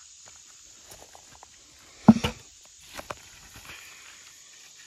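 Hands digging and rustling through loose soil in a potato bed, with one loud thud about two seconds in and a smaller knock about a second later. Insects chirr steadily in the background.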